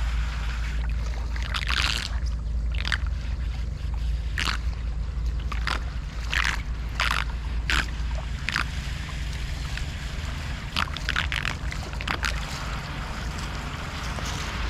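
Floodwater sloshing and splashing in short bursts every second or so, over a steady low rumble of wind on the microphone.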